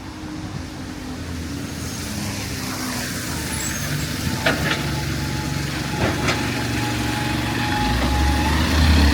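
Heavy road vehicle's engine rumbling past on a city street, growing louder toward the end, with tyre hiss off the wet road. A thin steady whine runs through the middle, with a few sharp clicks.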